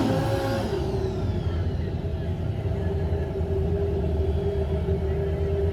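Drag-bike engine noise: a revving engine fades in the first second, then a steady low engine rumble with a constant hum.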